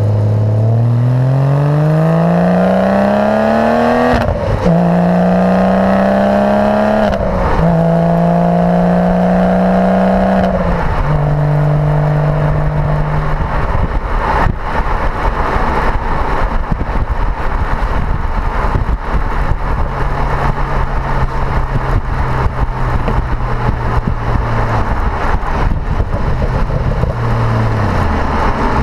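Porsche Boxster with a sports exhaust accelerating hard through the gears. The engine note climbs and drops back at three upshifts in the first eleven seconds, then settles to a steady cruise among road noise, and the pitch falls near the end.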